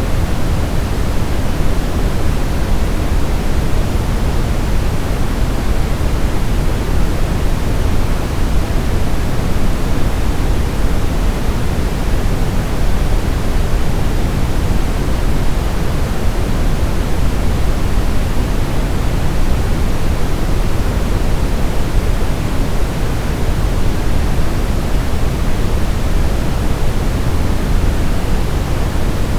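Steady, unchanging sleep-aid white noise, weighted toward the low end like pink noise: an even hiss over a soft rumble, with no rhythm, tones or separate events.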